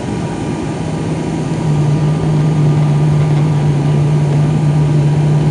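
Cabin noise of an ATR 72-500 turboprop airliner: steady rushing air with the deep drone of the propellers, which grows louder about one and a half seconds in.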